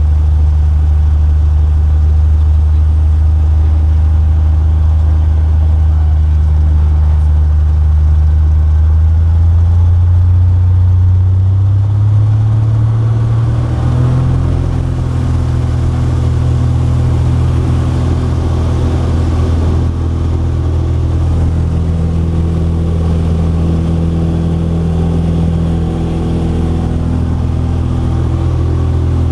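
Cessna 182's piston engine and propeller running steadily, then rising in pitch between about nine and fourteen seconds in as power comes up, and holding the higher pitch after that.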